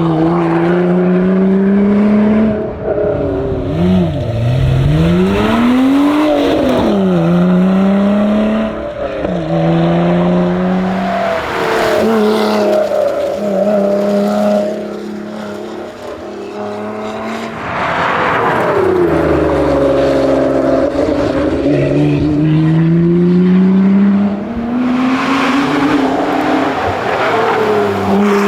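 Lotus Exige Sport 410's supercharged V6 driven hard on a rally stage, climbing in pitch through the gears with sharp drops at each upshift. A few seconds in, the pitch swings quickly up and down as it comes down through the gears, and about halfway through the engine falls away and quietens before pulling hard again.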